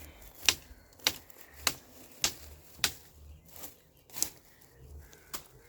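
Footsteps through woodland undergrowth, a sharp crackle at each step, about ten steps at a steady walking pace.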